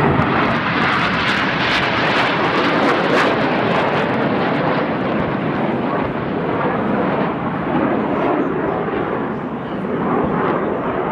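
Jet noise from a formation of BAE Hawk T1 trainers flying past, their single Adour turbofans making a loud, steady rushing sound with a crackle in the first few seconds.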